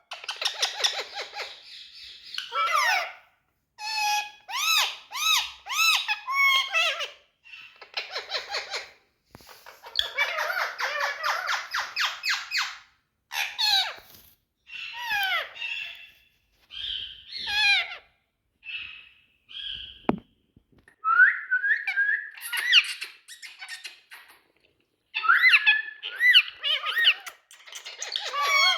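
Indian ringneck parakeet calling and chattering: repeated bouts of high-pitched squawks, squeaks and rapid rattling call trains, separated by short pauses.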